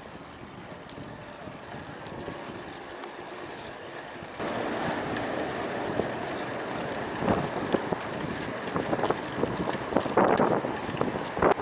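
Wind buffeting the action camera's microphone on a moving road bike in strong wind. It jumps louder about four seconds in, with a thin high whistle for a few seconds and several short, louder gusts near the end.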